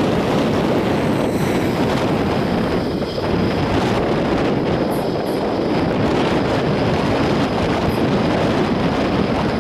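Steady, loud rushing noise of a Go-Ahead regional train running close past along the platform, mixed with wind buffeting the microphone.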